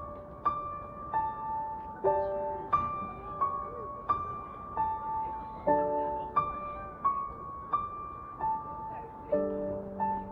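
Solo piano accompaniment separated out of a pop song's full mix: a slow, gentle melody of single notes struck about every half to three-quarters of a second, each left to ring, with fuller chords sounding twice.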